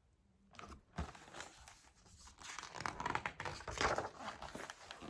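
Paper rustling and crinkling in irregular bursts: the pages of a picture book being handled and turned.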